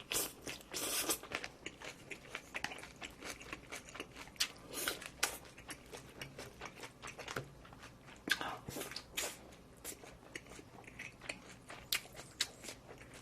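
A person chewing and biting food close to the microphone: irregular wet clicks and small crunches from the mouth.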